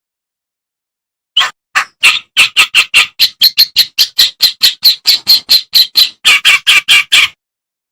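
Kerak basi, a reed warbler, singing a fast run of harsh, chattering notes, about four or five a second. The run starts after a second and a half of silence and stops abruptly near the end.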